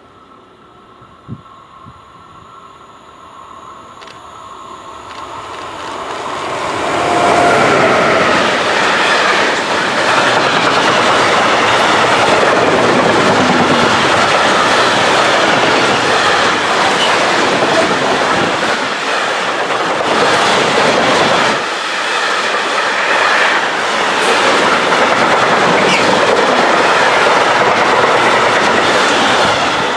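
Long container freight train approaching, its sound swelling over the first several seconds, then its loaded container flat wagons running past close by at a steady loud level with a rapid rattle of wheels on the rails.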